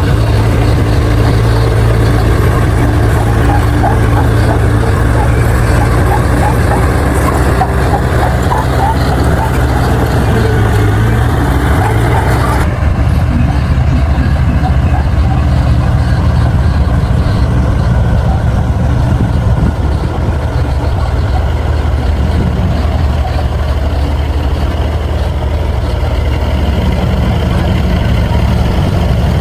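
Bulldozer's diesel engine running steadily under load, with some clattering from about 6 to 12 s. Roughly halfway through, the higher part of the sound drops away suddenly while the low engine note continues.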